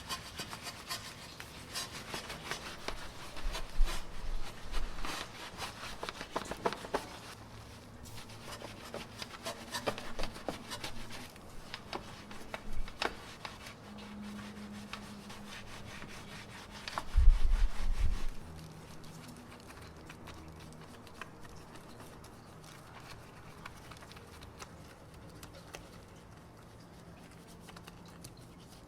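Rubbing and scrubbing from hand detailing work, with many small scratchy clicks and taps, busiest in the first half. There is a louder low thud about seventeen seconds in, and the rest is quieter.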